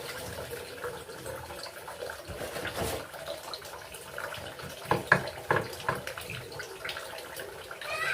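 Water running from a tap while food is washed by hand in a sink, with a few louder clatters and splashes about five seconds in.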